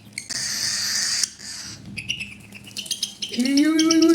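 Hand-fed cockatiel chick eating from a spoon: a raspy hiss for about a second, then a run of rapid clicks, the 'chup chup' eating sound. Near the end a person's voice starts humming a rising note.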